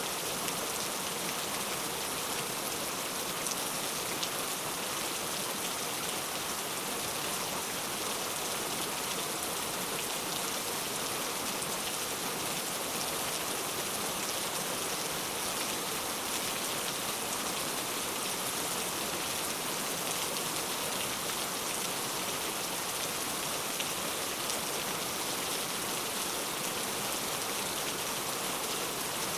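Heavy rain falling steadily, a dense even hiss of drops hitting a surface with fine patter.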